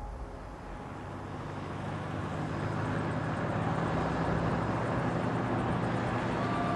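Helicopter running steadily: a constant engine and rotor noise that swells up over the first few seconds and then holds.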